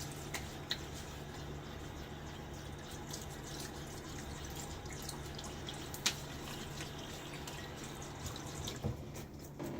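Water running steadily from a tap into a sink, with a few sharp clicks over it; the flow stops at the very end.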